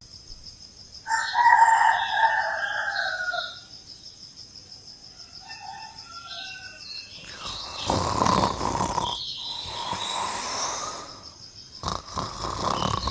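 A rooster crowing once, a long call starting about a second in and lasting about two seconds. A few seconds of noisy hiss follow later.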